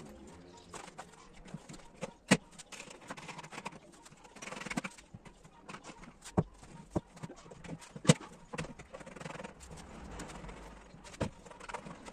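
Irregular knocks and taps of wood being handled, with two sharper, louder knocks about two seconds in and about eight seconds in, and short scraping or rustling sounds in between.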